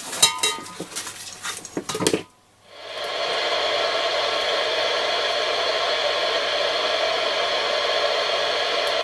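A few sharp clicks and knocks as the aerial is plugged in and the set handled, then about three seconds in the AOR AR-2002 scanner receiver's speaker comes on with a steady hiss of static.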